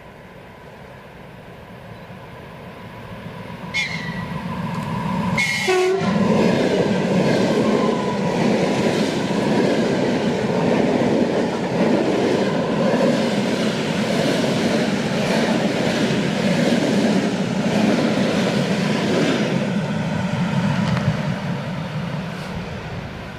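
ЭД4М electric multiple unit passing: a brief horn blast with falling pitch about five seconds in, then the rumble and rhythmic wheel clatter of the cars going by for about fifteen seconds, fading near the end.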